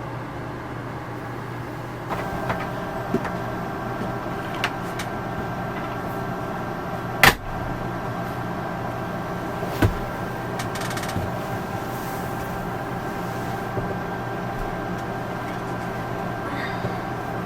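A steady machine hum carrying several steady tones, a little louder from about two seconds in, with a few light clicks and two sharp knocks, the louder one about seven seconds in.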